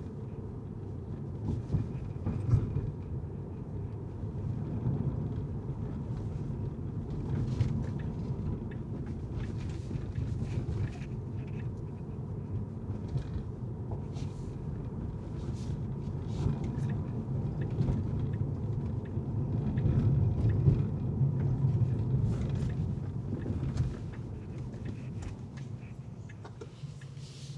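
A car driving on city streets: a steady low rumble of engine and road noise, with faint scattered ticks. It swells a little about two-thirds of the way through and eases off near the end.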